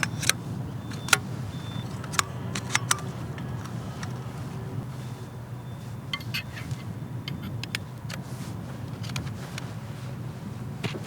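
Irregular sharp clicks and light metallic clinks, one or two at a time, over a steady low rumble of wind in a snowstorm. The loudest clicks come in the first three seconds.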